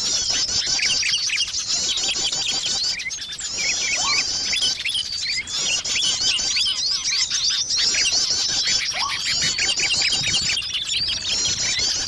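A bird-lure (pikat) track of many small birds chirping and twittering at once: a dense, fast, high-pitched chatter with hardly a break. A lower, rising call cuts in about four seconds in and again near nine seconds.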